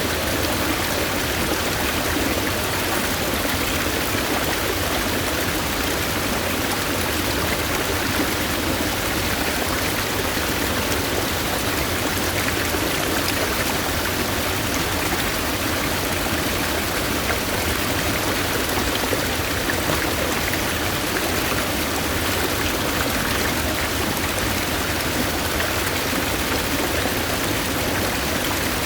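Mountain stream water rushing and splashing steadily over rocks.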